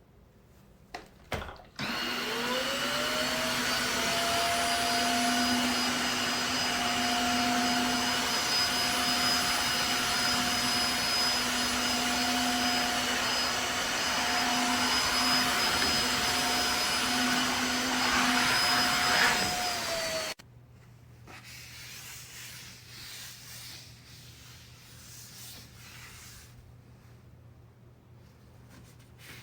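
Tineco iFLOOR 3 cordless wet-dry vacuum mop switched on: its motor spins up with a rising whine about two seconds in, runs steadily for about eighteen seconds, then winds down and stops. Faint rubbing and handling sounds follow.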